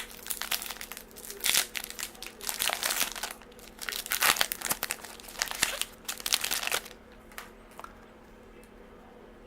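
Plastic-foil wrapper of a baseball card pack crinkling as it is handled and opened, a dense run of crackles that stops about seven seconds in.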